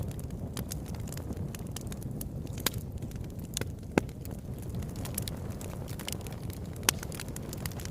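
Wood fire in a fireplace burning with a steady low rumble, popping and crackling at irregular moments, with sharper pops about four seconds in and again near seven seconds.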